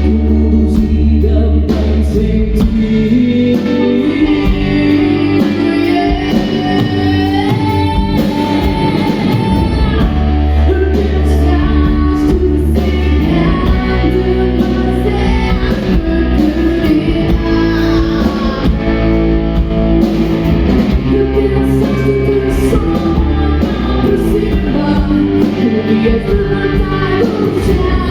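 A rock band playing live, with electric guitar, bass and drums, and a voice singing over it. The music is loud and continuous.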